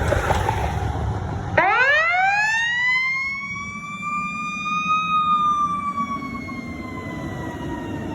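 A fire engine's siren winds up, its pitch rising fast about one and a half seconds in, then slowly winding down, like a mechanical coaster siren. A rumble of the truck comes before it.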